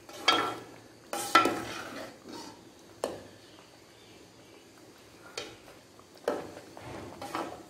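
A spoon scraping and knocking against a metal pan while stirring and roasting semolina halwa, in a handful of irregular strokes, the loudest about a second and a half in.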